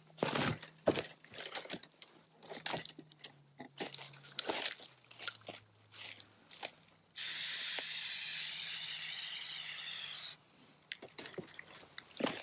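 Aerosol can of Flex Seal black rubberized coating spraying in one steady hiss of about three seconds, starting about seven seconds in and cutting off sharply. Before and after it, scattered clicks and crinkling handling noises.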